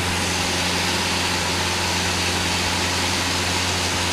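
Light airplane's piston engine and propeller droning steadily in flight, heard inside the cabin.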